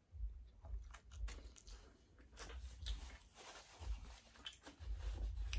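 Close-miked chewing of a mouthful of burger: irregular soft mouth clicks and smacks.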